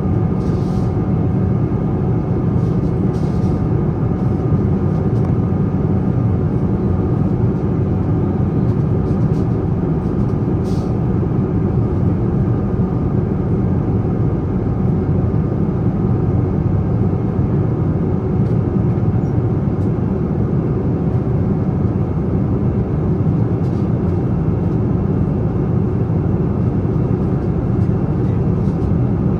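Boeing 777-300 cabin noise from its Rolls-Royce Trent 800 engines and airflow: a steady, unchanging deep drone with a few faint steady tones above it.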